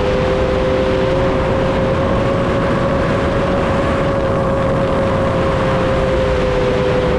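The electric motors and 7-inch propellers of an FPV quadcopter in flight, giving a steady whine that holds one pitch over a dense rushing noise.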